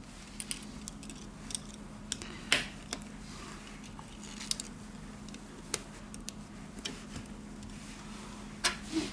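Scattered light clicks and taps of small repair tools and parts being handled while a V Smart Joy 1 smartphone is reassembled, over a steady low hum. The sharpest click comes about two and a half seconds in, with a short cluster near the end.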